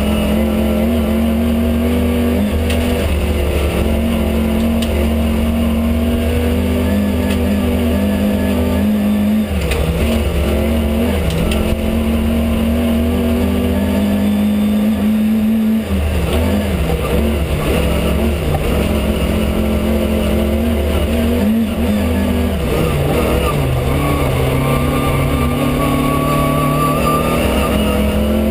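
Rally car engine heard from inside the cabin, running hard under load on a special stage. Its pitch drops and climbs again a few times as the driver changes gear.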